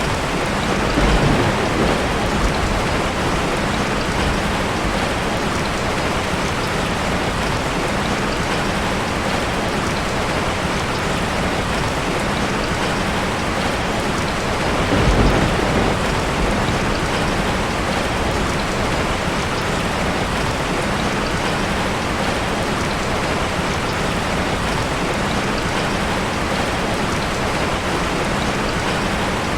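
Heavy rain falling steadily on a tin roof, with two low rolls of thunder, one about a second in and another about halfway through.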